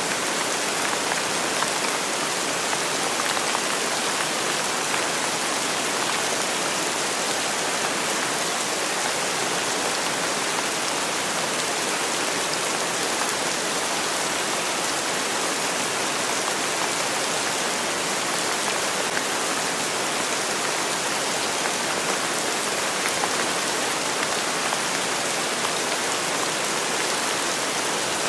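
Steady rainfall: an even hiss of many drops with fine scattered drop ticks, unchanging throughout.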